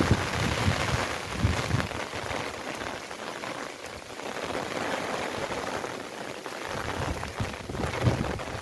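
Steady rain falling and pattering on surfaces, with a few heavier drops knocking now and then.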